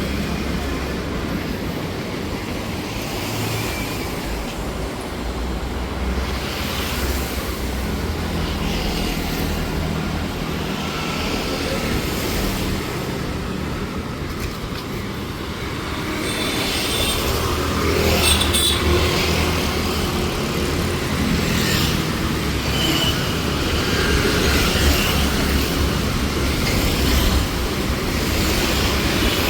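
Steady low rumble of passing vehicles in street traffic, growing louder about halfway through.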